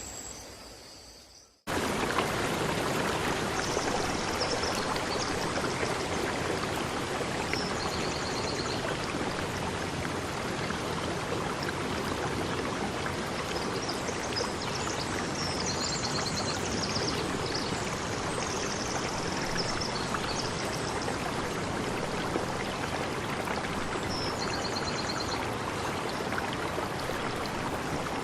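Water flowing in a stream, a steady, even rushing that starts suddenly about a second and a half in, just after chirping crickets fade out. Faint high chirping trills come through above the water now and then.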